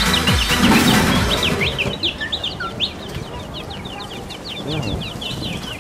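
Electronic dance music fades out over the first second and a half, leaving a dense run of quick, high bird-like chirps, several a second.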